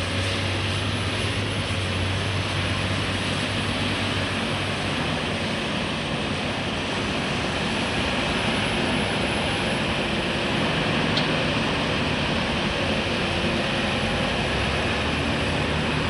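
Heavy diesel construction machinery running steadily, a low engine hum under a broad, even mechanical noise.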